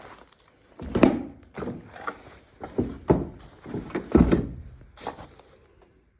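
An irregular series of about eight dull thumps and knocks over four seconds, dying away near the end.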